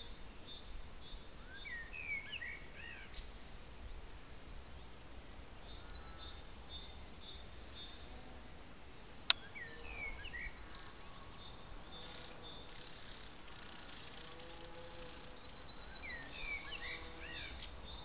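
Wild birds singing: a short, rapid trill repeating about every five seconds, with other scattered chirps between. A single sharp click about nine seconds in.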